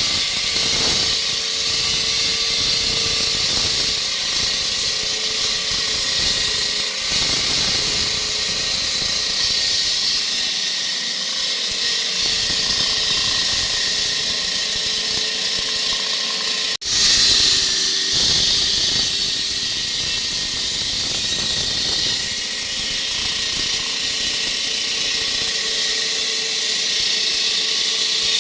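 Power saw cutting concrete: a steady, loud, hissing grind with a faint whine under it, breaking off for an instant about two-thirds of the way through.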